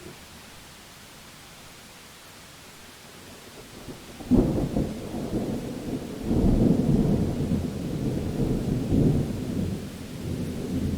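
Thunder: faint hiss, then a sudden crack about four seconds in, followed by a long low rumble that swells and dips.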